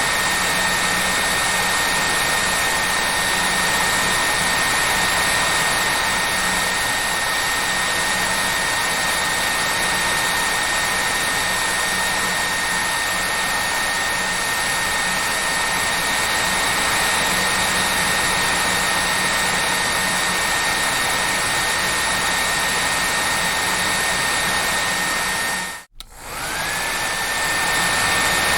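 Hair dryer running steadily: a loud even rush of air with a high whine. Near the end it cuts out for a moment, then comes back with the whine rising back up to pitch as the motor spins up again.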